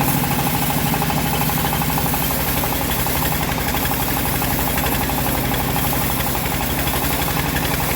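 Engine of an assembled bandsaw mill running steadily.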